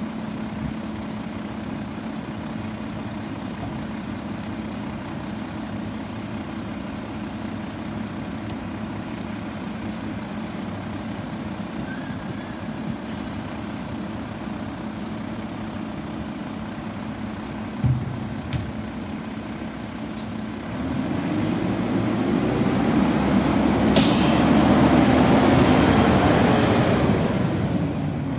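Garbage truck's diesel engine idling steadily, with two short knocks about two-thirds of the way in. Then the engine runs louder for several seconds, swelling and easing off, and a sharp air-brake hiss cuts through partway.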